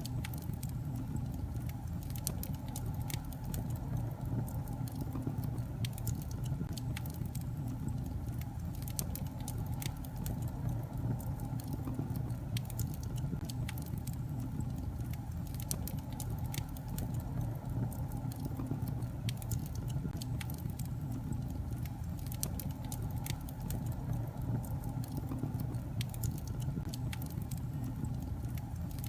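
Wood logs burning in a fireplace: a steady low rumble of flames with frequent sharp crackles and pops.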